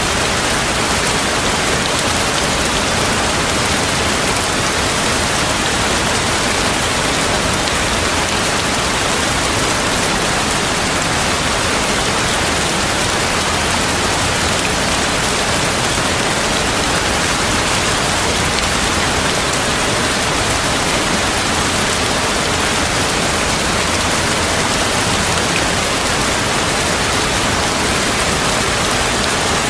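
Heavy rain falling steadily: an even, dense hiss with no breaks.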